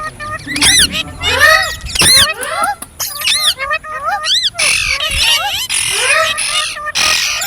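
Green parrots calling continuously: a quick run of short arching chirps and whistles, mixed with harsher screechy calls.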